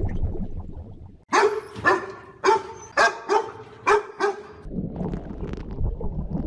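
Dog barking: about seven short, high-pitched barks in quick succession over roughly three seconds, starting about a second in.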